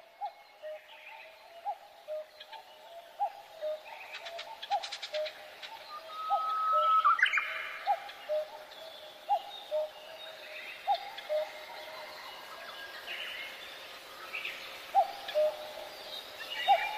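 Birds calling: a short low note repeating about once a second, with assorted higher chirps and whistles over it and a louder rising whistle about six seconds in.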